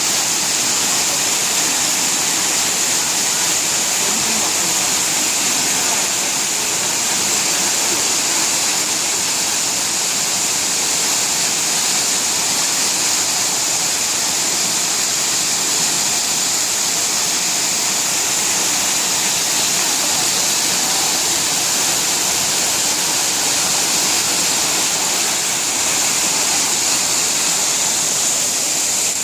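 Bigar waterfall's water pouring steadily: a loud, even rush with a bright hiss, unchanging throughout.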